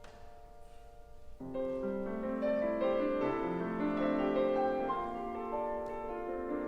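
Piano playing a slow classical introduction: a few held notes fading, then from about a second and a half in a louder, fuller stream of chords.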